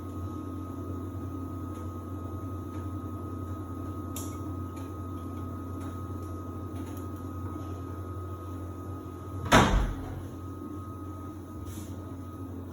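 Samsung washer-dryer running its drying cycle: a steady hum with a thin high whine over it. About two-thirds through there is one loud thump.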